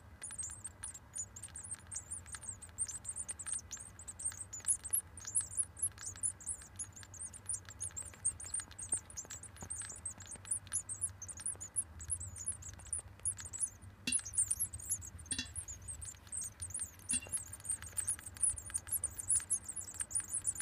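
Great tit nestlings, eight days old, peeping in a continuous stream of thin, very high-pitched notes. A few knocks come about two-thirds of the way through, over a low steady hum.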